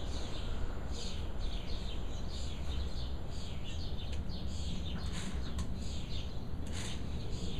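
Birds chirping, with many short high calls repeating throughout, over a steady low rumble.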